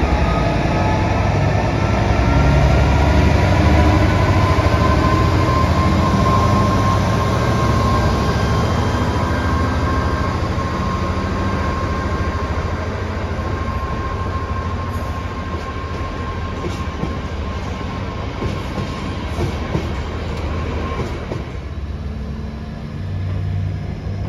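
A train of freight hopper wagons hauled by a Class 66 diesel rolling past on jointed track, a steady rumble of wheels on rail with a high wheel squeal running through the first half. About 21 seconds in the rolling noise drops away as the last wagons pass, leaving a lower rumble.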